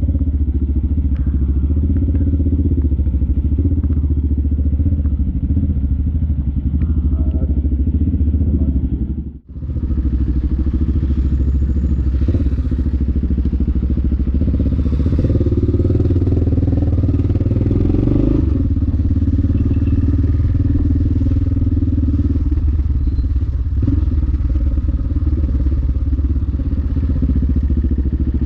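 Yamaha XT600E's single-cylinder four-stroke engine running steadily, heard on a motovlog ride, with a sudden short break about nine seconds in and a fuller engine note for a few seconds past the middle.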